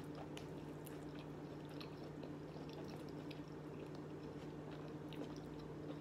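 Faint close-up chewing of shrimp and rice, with scattered soft clicks from the mouth and the plastic fork in the bowl, over a steady low electrical hum.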